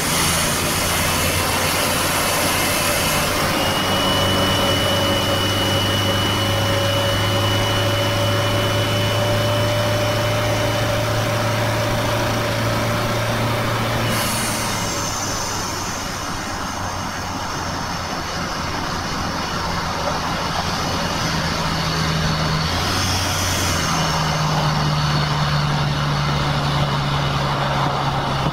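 Toyota 2KD four-cylinder turbodiesel engine and tyre and road noise heard from inside the cabin at highway speed, a steady drone. A faint high whistle runs through the first half. The engine note steps up in pitch about two-thirds of the way through.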